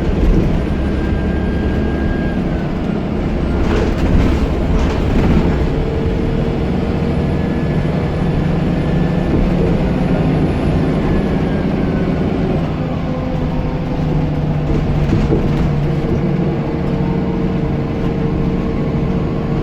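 Scania L94UB bus's diesel engine running steadily, with a turbocharger whistle that holds and slowly glides in pitch. A few knocks come about four to five seconds in.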